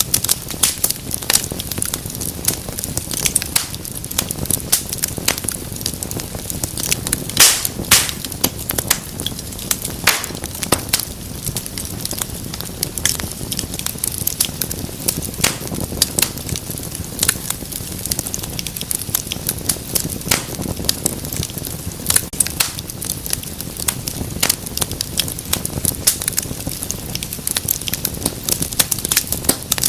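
Wood fire burning in a fireplace: dense, irregular crackling and sharp popping over a steady low rumble of flame, with a couple of louder pops about seven or eight seconds in.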